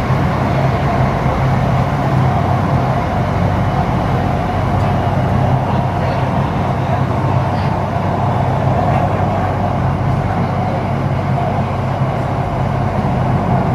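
HCMC Metro Line 1 electric train running between stations, heard from inside the car: a steady rumble of wheels on the track with a constant low hum.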